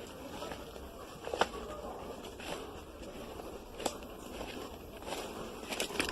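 Irregular footsteps with scattered faint clicks and crackles over a low outdoor background.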